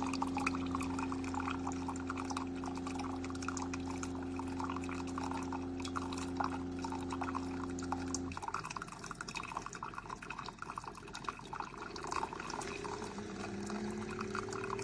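Coffee maker brewing: a steady pump hum runs under coffee pouring into the vessel. The hum cuts off about eight seconds in, and the liquid keeps trickling and dripping.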